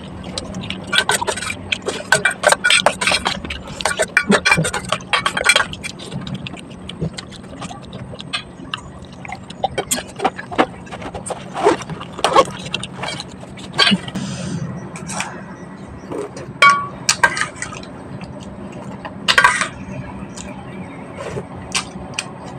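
Irregular clinks, knocks and scrapes of small hard objects being handled, busier in the first few seconds, over a steady low hum.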